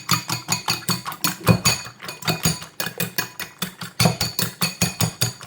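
A fork beating eggs in a bowl: quick, rhythmic clinks of the fork against the bowl, about four to five a second.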